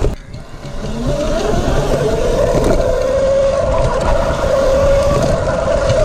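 Electric mini bike's QS90 mid-drive motor whining under power: the whine rises in pitch for a second or two as the bike picks up speed, then holds steady, over low wind and road rumble.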